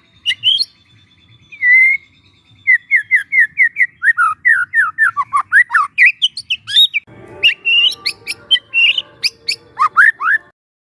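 Young white-rumped shama singing a fast run of short whistled notes, about four a second, most slurring downward. About seven seconds in, a faint steady background comes in behind the song. The song cuts off shortly before the end.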